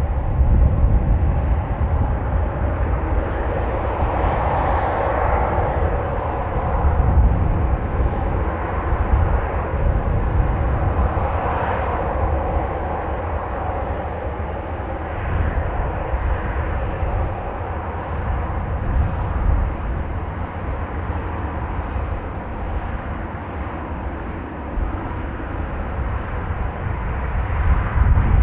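Jet airliner engines running steadily, their noise swelling and easing, under a heavy low rumble of strong wind buffeting the microphone.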